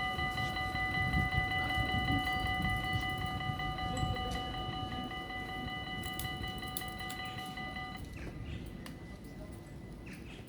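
Dutch railroad crossing bells ringing as a steady, multi-toned ring that cuts off suddenly about eight seconds in, over a low rumble that slowly fades.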